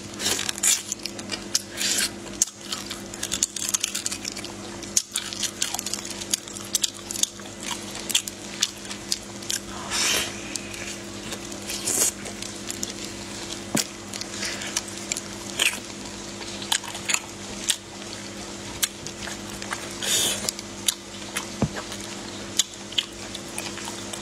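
Close-up wet chewing and biting of spicy marinated raw shrimp: frequent short smacks and squelchy clicks from the mouth and the soft shrimp flesh, over a steady low hum.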